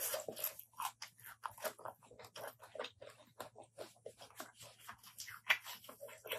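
Close-miked chewing of a mouthful of spicy Thai apple snail salad: a quick, irregular run of small wet crunches and clicks, with one sharper crunch about five seconds in.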